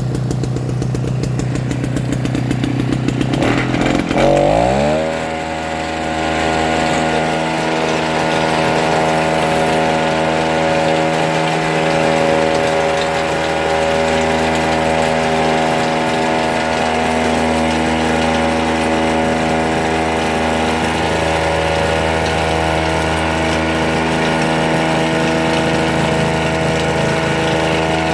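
Small two-stroke engine running. About four seconds in its note dips and rises, then it settles into a steady, even speed that holds to the end.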